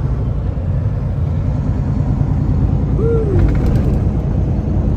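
Kenworth T680 semi truck driving at highway speed: a steady low rumble of engine and road noise. A short gliding tone comes through about three seconds in.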